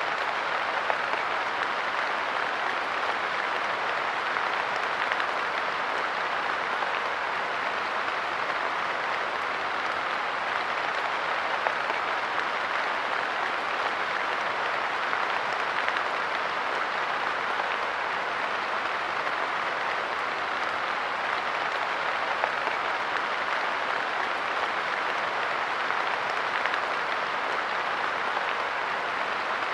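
Light rain falling on a park bench: a steady, even hiss of drops with an occasional louder drip.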